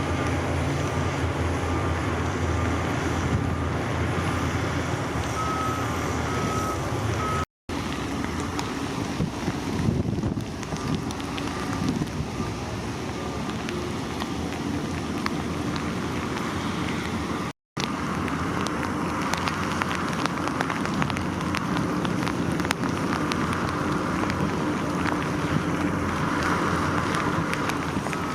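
Heavy construction machinery diesel engines running steadily, with a reversing alarm beeping in short repeated tones through the first several seconds. The sound drops out briefly twice.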